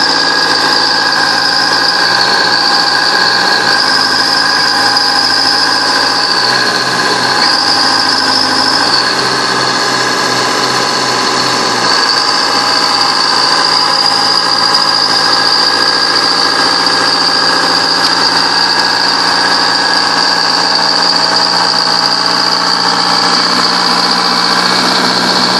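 Bulldozer engine running steadily with a high whine over it, its pitch shifting slightly every few seconds as the load changes.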